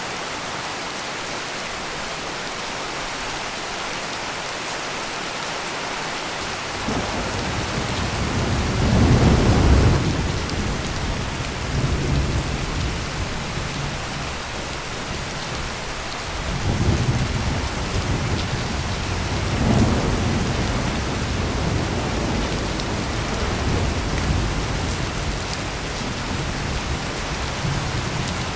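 Heavy rain pouring steadily, with thunder coming in about a quarter of the way through: a deep rumble that swells loudest about a third of the way in, then rolls on in further waves and fades to a low grumble under the rain.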